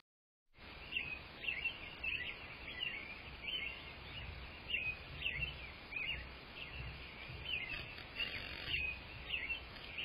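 A bird calling over and over in short, quick chirps, roughly one every half second, over a faint steady hiss.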